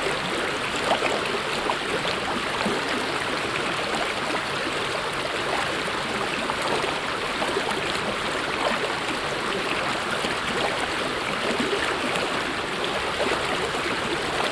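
Mountain stream flowing over rocks: a steady rush of water with small splashes and gurgles.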